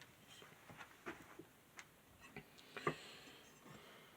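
Faint, irregular clicks and light taps of the old table fan's metal parts and wiring being handled, with a soft rustle about three seconds in.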